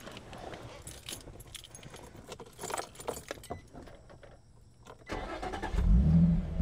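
Keys jangling and small clicks, then about five seconds in a 2005 Infiniti G35's VQ35DE V6 cranks and catches with a brief rev flare, settling into a steady idle.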